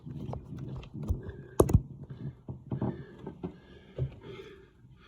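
Close-up handling noise: irregular knocks, taps and rubbing, with a brief squeak about a second in and a sharper knock soon after.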